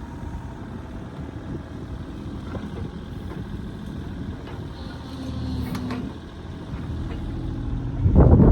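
John Deere 27D mini excavator's diesel engine running steadily, with scattered clicks and a brief steadier tone about five seconds in; a loud knock near the end.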